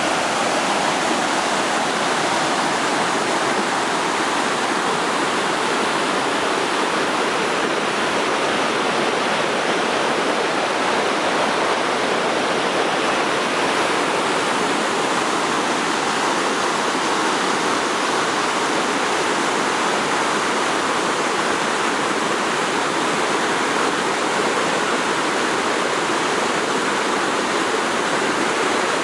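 A river in flood pouring over a waterfall and dam: a loud, steady rush of water that never lets up.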